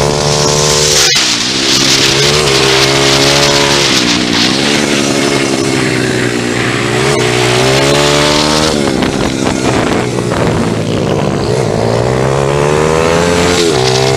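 Pit bike engine revving hard as it laps the track, its pitch climbing and then dropping sharply several times as the throttle is shut for corners and gear changes, with wind rushing over the microphone.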